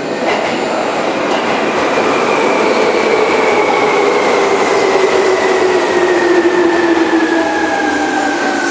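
Seibu New 2000 series electric commuter train pulling in and slowing. Its running noise carries a whine that falls steadily in pitch as the train decelerates.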